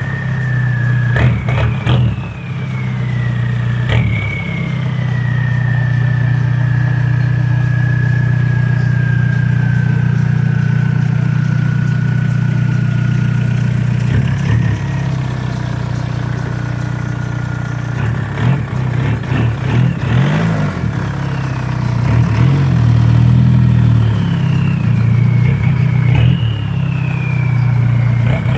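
Volkswagen Mk4 TDI's 1.9-litre four-cylinder turbodiesel running through a 2.5-inch straight-pipe exhaust, idling with a steady drone and revved in several short blips. A high turbo whistle jumps up with each blip and slowly falls away as the engine settles back.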